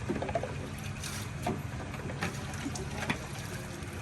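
A steady low mechanical hum with several short knocks and clicks scattered over it.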